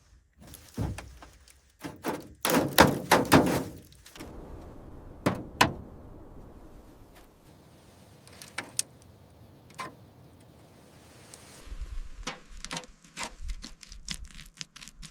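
Irregular thunks and knocks with sharp clicks, loudest in a clatter of impacts about two to four seconds in, then scattered single clicks and a quicker run of knocks near the end.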